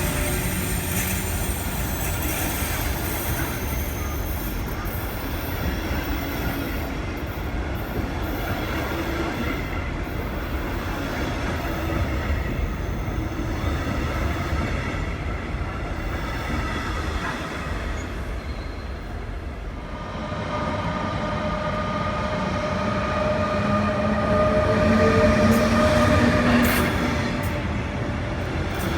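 Train running on the rails: steady wheel and track rumble with a held whine. About twenty seconds in, the whine rises slightly in pitch and grows louder, loudest about 25 seconds in, then eases off.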